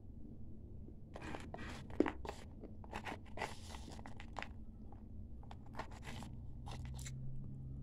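A person chewing dry chunks of clay, with brittle crunching and crackling in bunches from about a second in until near the end.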